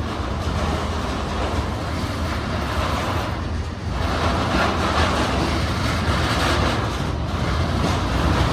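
A train passing by: a steady rolling noise of wheels on the rails.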